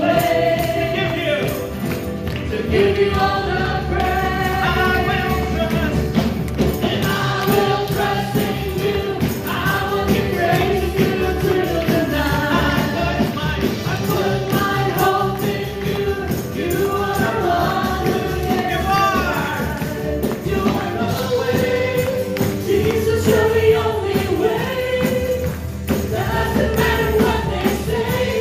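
Worship music: a choir singing over a band with tambourine, playing steadily.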